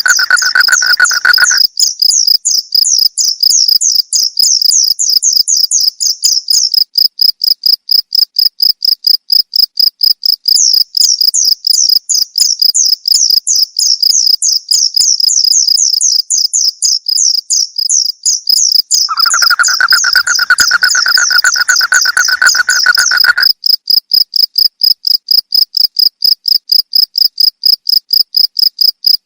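Crickets chirping in a fast, steady pulse. A second, lower steady trill comes in for a few seconds past the middle.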